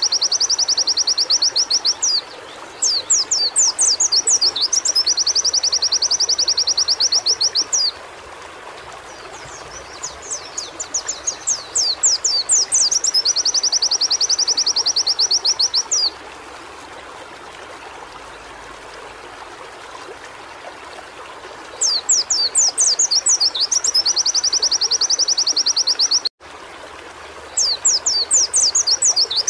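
White-eye (pleci) singing in repeated phrases, each a run of quick high chirps leading into a fast, even trill, with short pauses between phrases. A faint steady hiss lies underneath, and the sound cuts out abruptly for a moment near the end.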